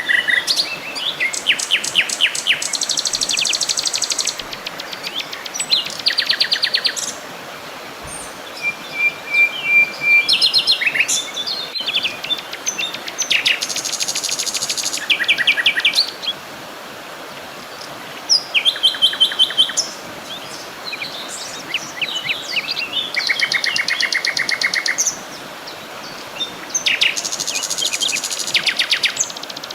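Several songbirds singing and calling over one another: quick repeated trills and chirps, high-pitched, with a steady background hiss beneath.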